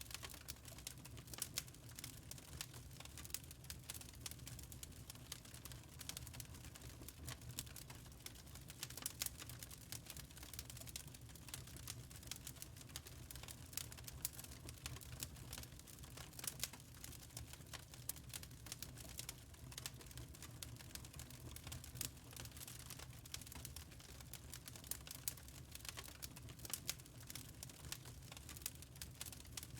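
Wood fire crackling in a fireplace: a constant scatter of small irregular snaps and pops over a low, steady rumble.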